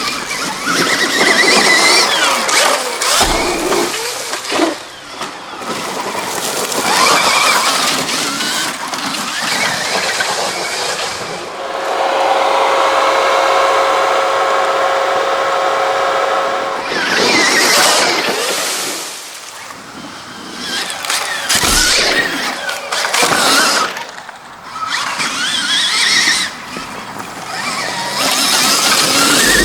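2024 Stark Varg electric dirt bike's motor whining, its pitch rising and falling with the throttle. It holds one steady whine for about five seconds near the middle, with dips in between.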